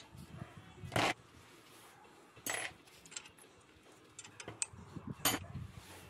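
A few sharp metallic clinks and knocks, as of hard objects being set down or handled. The loudest come about a second in and again near the end, with lighter ticks between.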